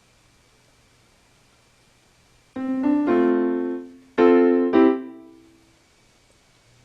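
Piano chords played in two short groups starting about two and a half seconds in, each ringing and dying away, with the last fading out about a second before the end.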